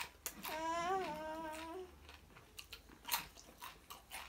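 A person's voice humming one held, wavering note, followed by crunchy chewing of crisp fried chicken skin with scattered sharp crackles.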